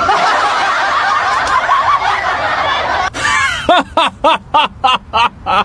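A dense wash of many overlapping high-pitched sounds for about three seconds, then after a break a person laughing in a quick run of about eight short ha-ha bursts.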